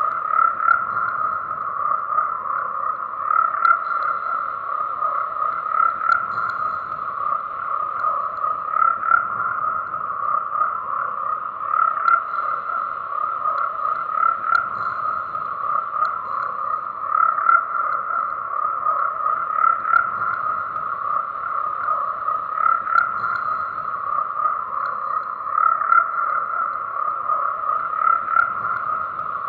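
Chorus of many frogs croaking together, a dense, steady din of overlapping calls centred on one mid-high pitch with no break.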